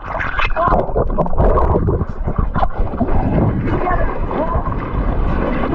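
Raised, excited human voices over heavy wind buffeting on the microphone, as in amateur footage shot on open water.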